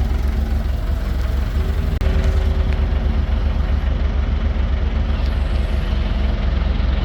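An engine idling with a steady, low, pulsing rumble that gets a little stronger about two seconds in.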